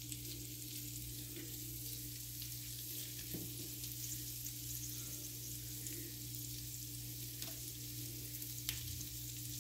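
Skewered boiled quail eggs sizzling on a hot tawa: a steady, quiet hiss with a few faint crackles, over a constant low hum.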